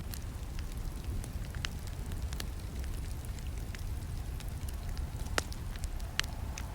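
Campfire burning, with a low steady rumble of the flames and irregular sharp crackles and pops, a loud snap about five seconds in.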